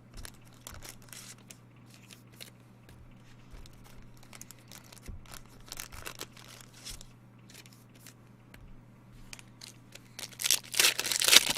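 Trading cards and packaging handled with light clicks and rustles, then the wrapping of the next pack torn and crinkled open loudly near the end.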